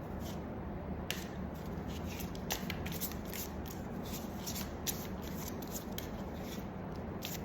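Tarot cards being shuffled by hand: a quick, irregular run of short card flicks and slaps, thickest from about a second in, over a steady low hum.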